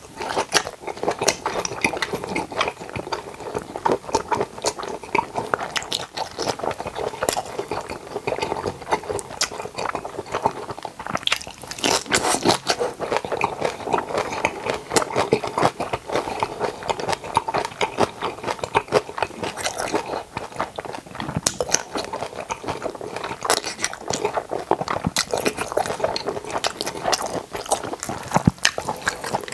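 Close-miked chewing of boiled pork (bossam) and kimchi: a dense, unbroken run of small wet clicks and crunches.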